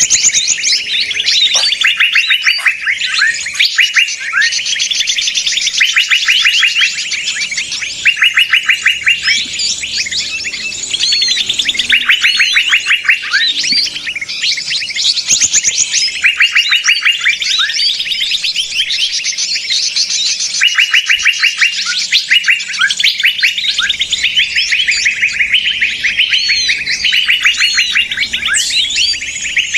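Many small songbirds chattering and trilling at once in a dense, unbroken mix of rapid repeated notes: a 'ribut' lure recording of a noisy mixed flock, used to draw small birds in for trapping.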